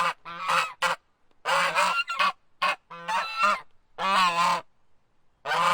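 Domestic geese honking repeatedly, a run of short honks in quick groups with brief gaps between them.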